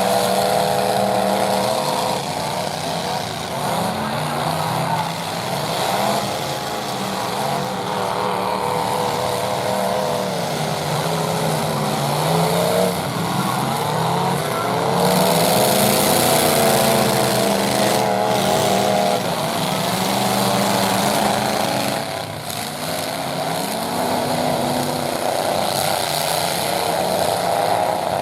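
Several full-size pickup truck engines revving up and falling back again and again, overlapping one another. There is a burst of hiss about fifteen seconds in.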